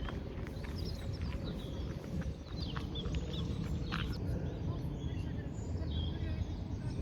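Birds chirping in short calls over a steady low background rumble, with a few brief ticks.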